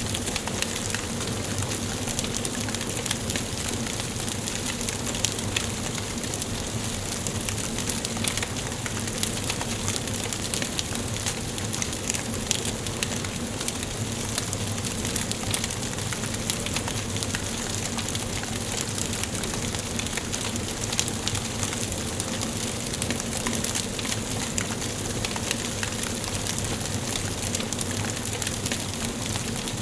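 Wood fire crackling in a fireplace: a steady hiss of burning logs with many small, irregular pops and snaps throughout.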